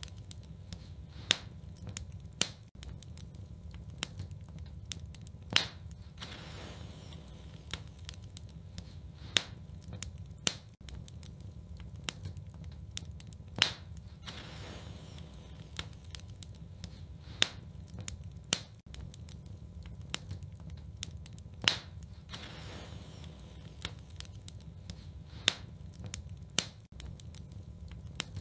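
Wood fire burning in a fireplace: a steady low rumble of flames with irregular crackles and sharp pops of burning logs, a few of them much louder than the rest.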